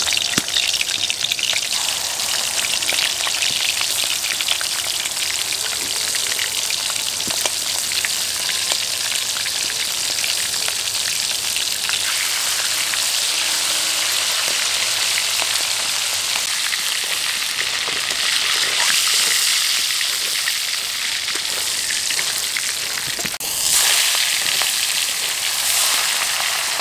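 Golda prawns sizzling and crackling steadily as they fry in hot mustard oil in a kadai. The sizzle suddenly gets louder near the end.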